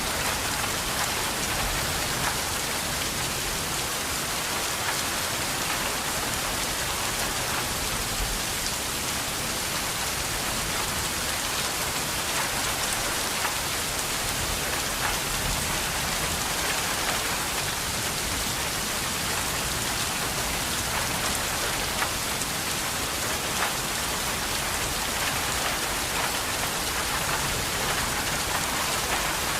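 Steady rain falling: an even, continuous hiss with scattered faint drop taps.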